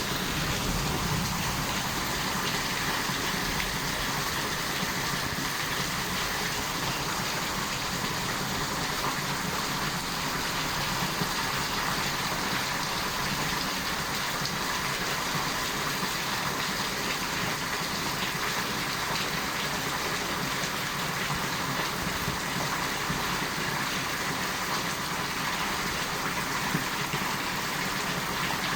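Steady rain falling in a thunderstorm downpour: an even, unbroken hiss.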